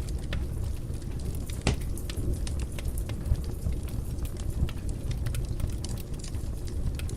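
Wood fire in a fireplace crackling, with many small pops over a low steady rumble and a sharper pop a little under two seconds in.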